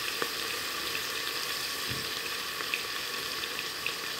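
Onion, tomato and spice masala sizzling steadily in a stainless-steel pressure cooker pot over a gas flame, with small scattered pops.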